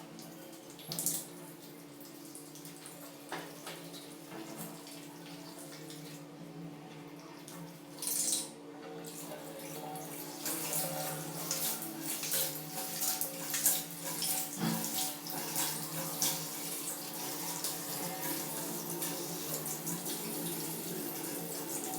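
Water running from a tap into a sink, getting louder about halfway through, with scattered clicks and knocks.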